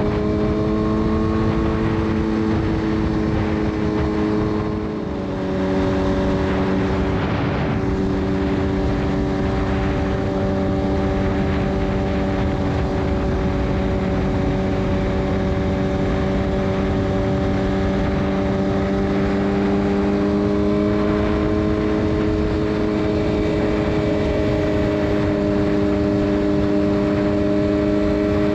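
Suzuki GSX-R 600 inline-four with a full Yoshimura exhaust running at steady riding revs. About five seconds in, the revs and level dip briefly, then the engine settles back to a steady drone that climbs a little in pitch later on.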